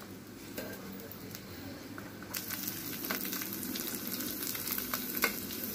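Coconut pieces sizzling as they fry in hot ghee in a metal kadai, with a few clicks and scrapes of the stirring spoon against the pan. The sizzle grows louder a little over two seconds in.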